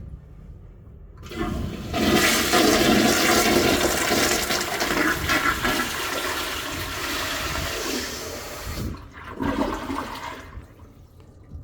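Dongseo Industry C235 toilet flushing. A rush of water starts about a second in and runs loud for about seven seconds. It drops briefly, surges again once, then dies away near the end.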